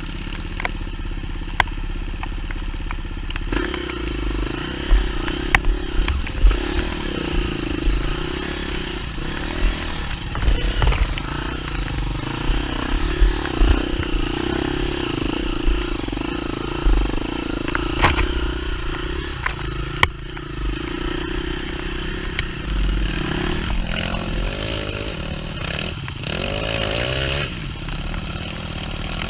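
Enduro dirt bike engine running over rough trail, with scattered knocks and clatter from the bike. Near the end the engine revs up.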